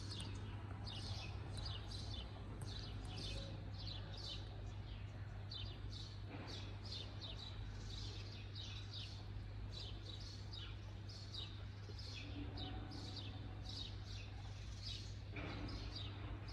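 Birds chirping over and over, many short high chirps falling in pitch, over a steady low hum.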